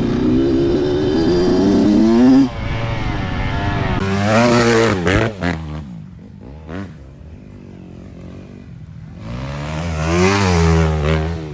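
Dirt bike engines revving. One climbs steadily in pitch for about two and a half seconds and cuts off suddenly. Twice more an engine swells up in pitch and falls away, around four seconds in and again near the end.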